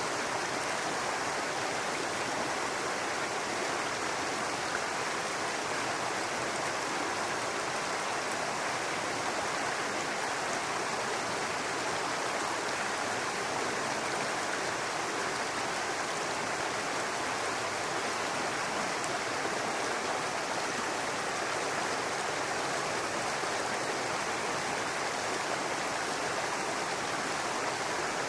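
Brook water running and babbling over rocks, a steady even rush with no breaks.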